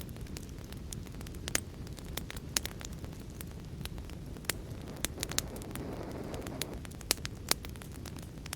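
Fire crackling in a fireplace: irregular sharp pops and snaps over a steady low rumble and hiss, with a short swell of hissing about five seconds in.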